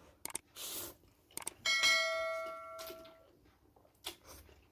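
Tableware struck once with a clear metallic ring that dies away over about a second and a half, amid small clicks and handling noises of eating utensils.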